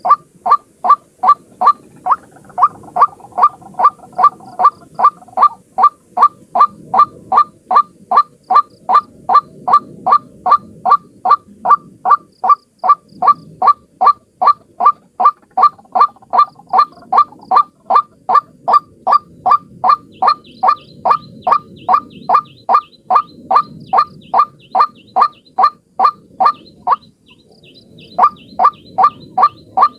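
White-breasted waterhen calling: short, loud notes repeated evenly a little over twice a second, breaking off for about a second near the end before starting again.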